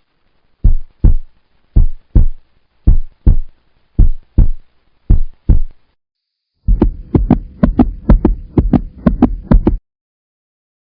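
Heartbeat sound effect: five lub-dub double thumps about a second apart, then a faster run of thumps over a steady hum that cuts off suddenly.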